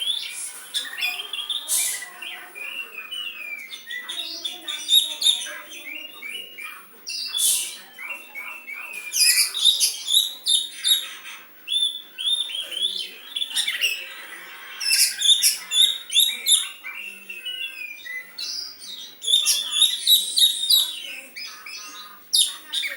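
Oriental magpie-robin (kacer) singing a long, varied run of loud chirps, whistled glides and rapid phrases in clusters, with song in the style of the sooty-headed bulbul (kutilang).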